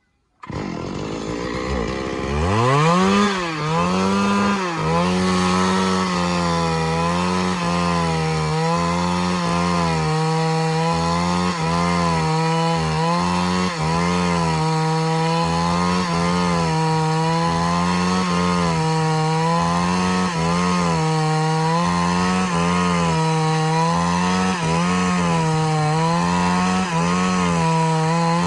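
Two-stroke chainsaw revving up over the first few seconds, then running at high speed as it cuts through wood, its pitch wavering up and down under the load.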